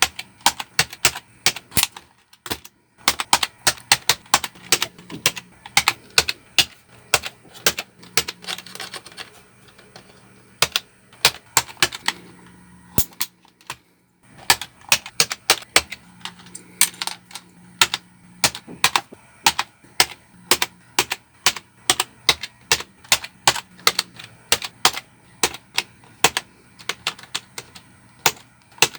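Xenics K3 keyboard keys clacking in quick, irregular clicks, the keys being pressed one after another, with a brief pause about 13 seconds in.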